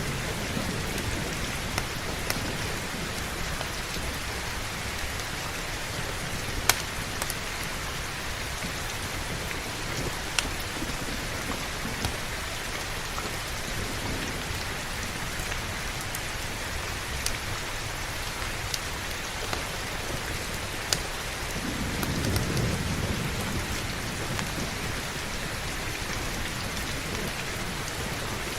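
Steady heavy rain, with a few sharp clicks scattered through it. A low rumble of thunder swells about two-thirds of the way in and fades.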